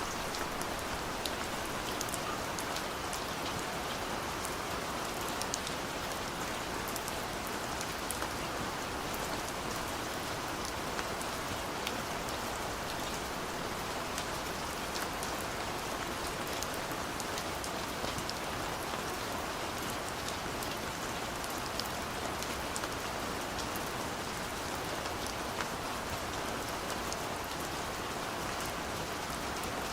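Steady rain falling on a surface, a constant hiss with many small drop ticks throughout.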